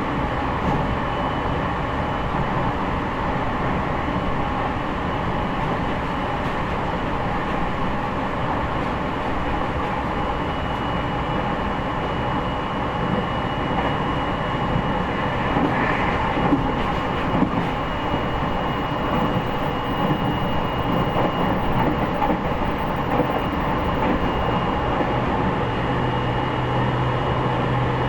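Running sound inside the motor car of a JR East E501 series electric train, whose traction motors are driven by a Toshiba IGBT inverter: a steady noise of wheels on rail and motors while the train runs between stations. A thin steady high tone comes in about ten seconds in, and a low hum rises near the end.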